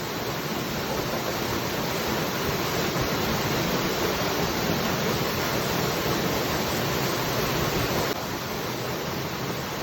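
Waterfall rushing steadily, dropping slightly in level about eight seconds in.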